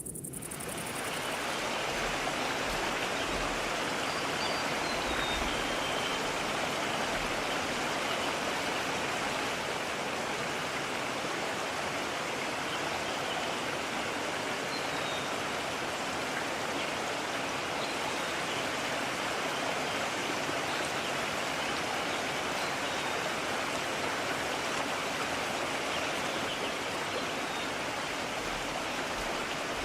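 Mountain stream rushing, a steady, even sound of flowing water that swells in over the first second or two.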